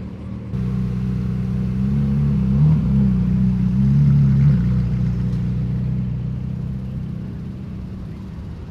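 A car engine running close by: it gets louder about half a second in, its pitch wavers as it peaks around the middle, then it slowly fades as the car pulls away.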